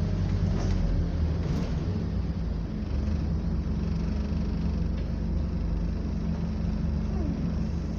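Scania double-decker bus's diesel engine running steadily under way, a continuous low drone heard from inside the bus.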